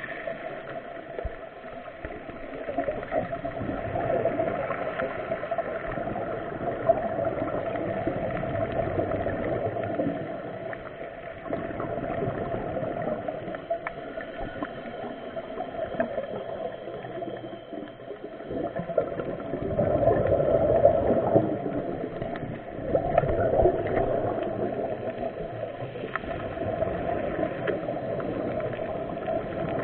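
Muffled underwater water noise with gurgling during a scuba dive in the sea, swelling louder every few seconds.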